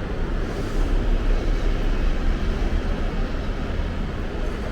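Steady low rumble of a shuttle bus running, heard from inside the bus, with an even noise over it.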